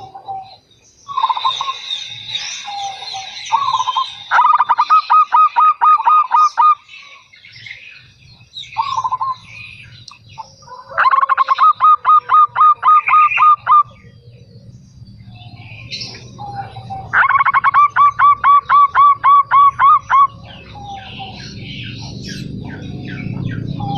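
Zebra dove (perkutut) song: three bouts of quick, evenly repeated cooing notes, about four or five a second, each bout lasting two to three seconds. Higher bird chirps come in between the bouts, and a low rumble builds near the end.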